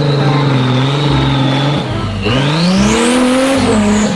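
Off-road 4x4's engine running steadily under load, then dipping about two seconds in and revving up before easing back down.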